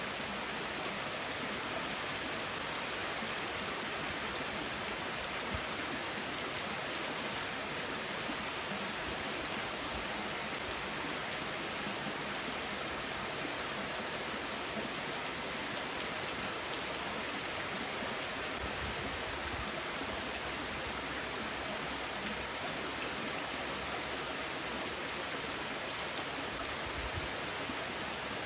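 Steady rain falling: an even, unbroken hiss sprinkled with the small ticks of individual drops.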